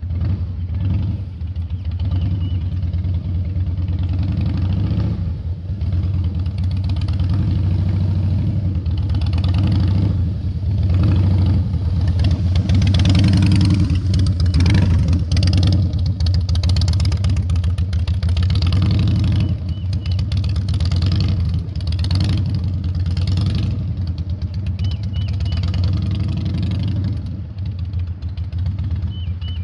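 Harley-Davidson V-twin motorcycle engine running at low speed through a slow cone-weaving drill, the engine note rising and falling with small throttle changes. It is loudest around the middle, as the bike comes closest, and eases off near the end.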